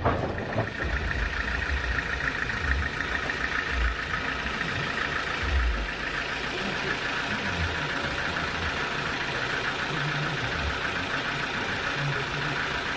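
Sawmill machinery engine running steadily, with a sharp knock at the start and a few low thumps during the first half.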